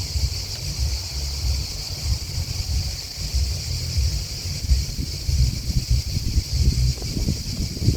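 A steady, high-pitched chorus of chirping grasshoppers and crickets. Underneath it, gusty wind rumbles on the microphone, rising and falling and louder than the insects.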